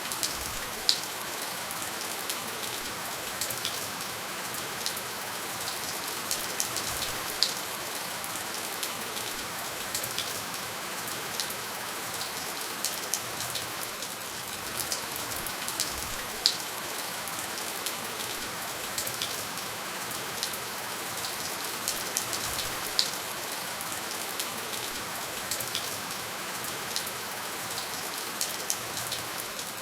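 Steady, gentle rainfall with no thunder: an even hiss of rain, with the sharp ticks of individual drops landing close by, scattered through it a few times a second.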